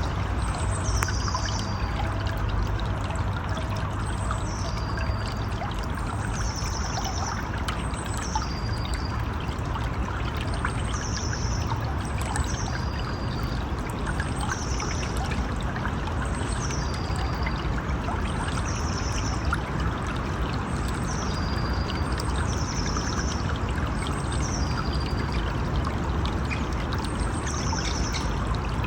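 Steady rushing of a stream or river, with a high-pitched call repeating about every one and a half seconds, each call stepping down in pitch.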